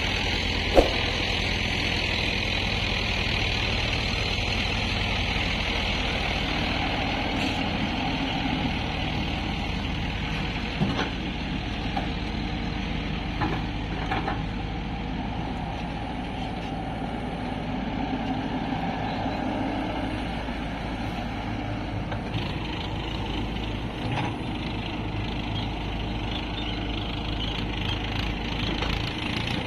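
Diesel engines of a working excavator and tractors running steadily. There is a sharp knock about a second in and a few fainter knocks later on.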